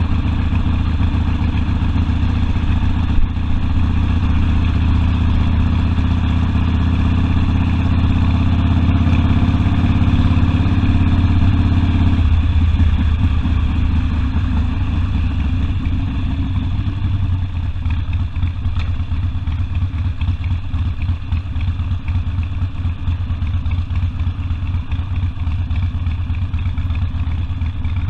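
Harley-Davidson Sportster V-twin engine running under way, heard from the rider's seat. It pulls steadily for about the first half, eases off sharply about twelve seconds in, and runs quieter for the rest.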